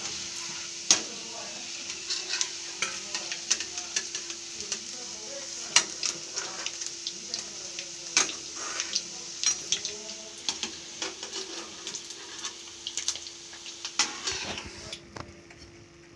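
Whole boiled eggs sizzling in hot mustard oil in a kadhai, with a metal spatula scraping and clicking against the pan as they are turned and lifted out. The sizzling drops away near the end.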